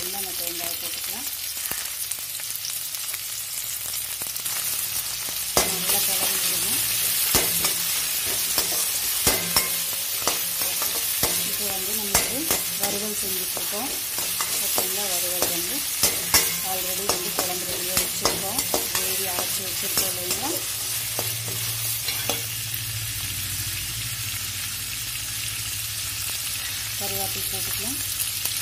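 Chopped onions, garlic, tomato and chillies sizzling in hot oil in a steel kadai. A metal slotted spatula scrapes and clinks against the pan as the mix is stirred, mostly between about five and twenty seconds in.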